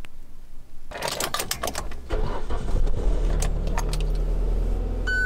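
Car keys jangling and clicking about a second in, then the car's engine starts about two seconds in and settles into a steady idle.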